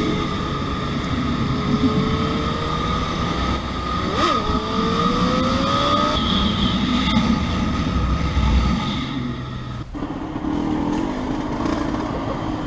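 Motorcycle engine pulling up through the gears: its pitch climbs, drops at a gear change about four seconds in, and climbs again, over a steady rush of wind noise. About ten seconds in the sound cuts abruptly to a quieter, different engine background.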